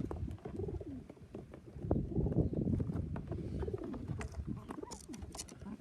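Domestic pigeons cooing in a cage, with repeated low, rolling calls that rise and fall in pitch. Scattered light clicks and taps are heard between the calls.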